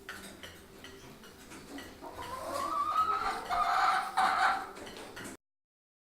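Domestic hen calling: a rising call about two seconds in, then louder clucking calls, cut off suddenly near the end. Faint clicks before the calls.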